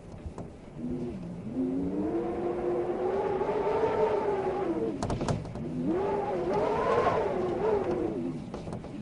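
A motor vehicle engine revving up in pitch and holding, breaking off briefly about halfway with a few sharp clicks, then revving up again and dying away near the end.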